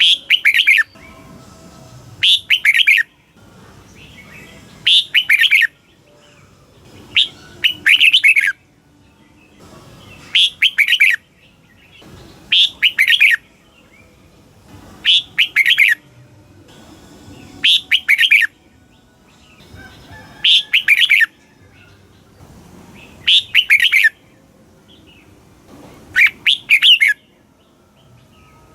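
Red-whiskered bulbul singing: short, bright, warbled song phrases of about a second each, repeated every two to three seconds.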